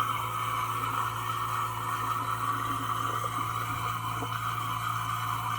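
Samsung DW80J7550US dishwasher with an LC (leak) error code, its drain pump running on continuously: a steady low hum with a watery rushing hiss, a continuous draining noise from inside the machine even though the tub is already drained.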